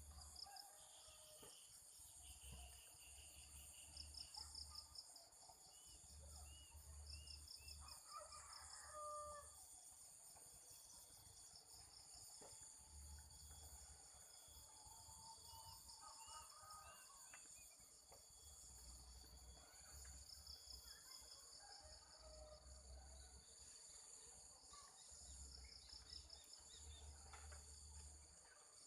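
Faint village morning ambience: insects buzzing and trilling steadily in the background, with scattered bird calls among them, including the cooing of local zebra doves (perkutut).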